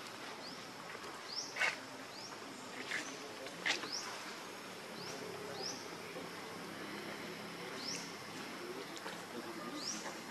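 A bird's short high-pitched rising chirps, about one a second at uneven intervals, over a steady outdoor hiss of insects. Two or three sharp clicks stand out in the first four seconds.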